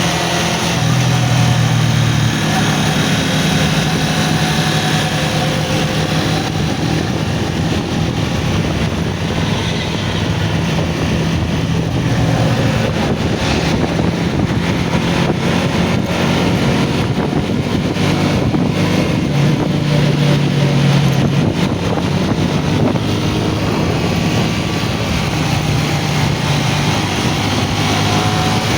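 A three-wheeled motorcycle's 100cc engine running steadily at road speed, with its pitch shifting now and then, under a hiss of wind and road noise.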